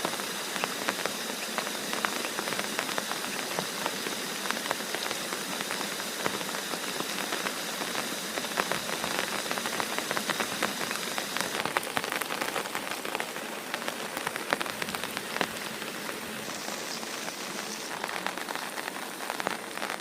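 Heavy rain falling, with dense patter of individual drops striking a surface.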